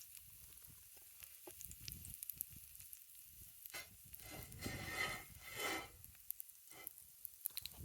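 Oil and pancake batter sizzling in a cast iron skillet over a campfire, a faint steady hiss with small crackles. Some louder noises come about four to six seconds in.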